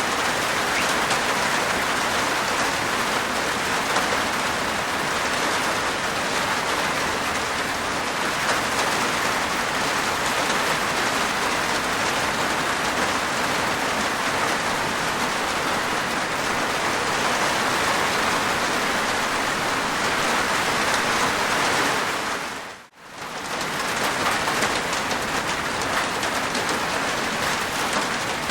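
Steady rain falling on a rooftop, an even dense patter. About 23 seconds in it fades out briefly to near silence and comes straight back.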